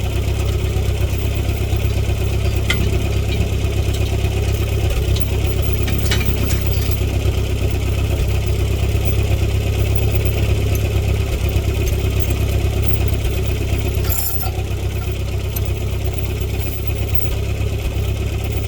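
Tractor engine running steadily at idle, with a brief clank about fourteen seconds in.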